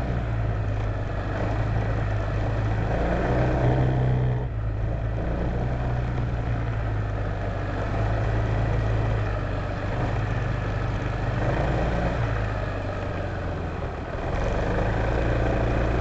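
Honda PCX150 scooter's single-cylinder four-stroke engine running, a steady low drone that eases briefly about four and a half seconds in and again near the end.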